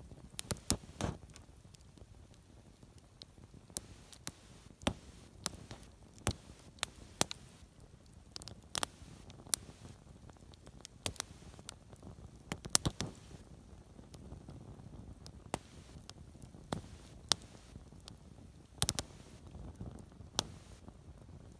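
Driftwood campfire crackling, with irregular sharp pops and snaps scattered over a low steady background.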